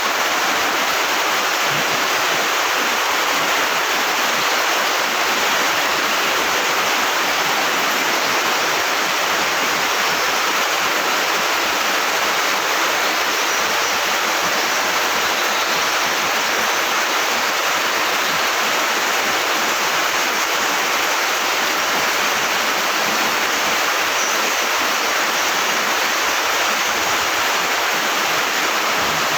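Heavy rain pouring down: a steady, even hiss of downpour without a break.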